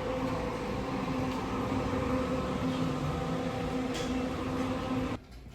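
A bus running close by, a steady engine hum with a few constant tones, which stops abruptly near the end.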